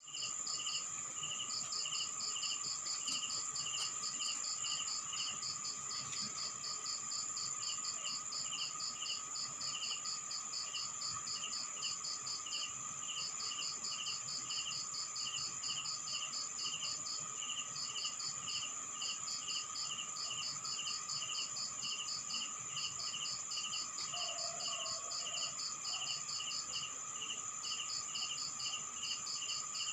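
Night chorus of crickets and other insects: a steady high-pitched trill under rows of rapid, evenly repeating chirps, with a lower steady drone beneath.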